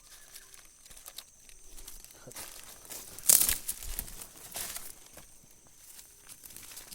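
Dry leaves and undergrowth crackling and rustling as someone moves through the jungle, in scattered small crunches with one loud crackling burst about three seconds in and a smaller one a second later.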